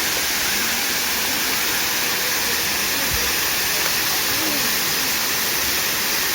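Steady rushing of a low waterfall, water pouring down onto the pool and rocks below.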